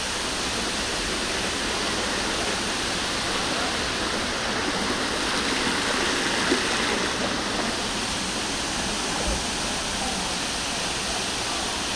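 Steady rush of falling water, like a waterfall, with no change in level.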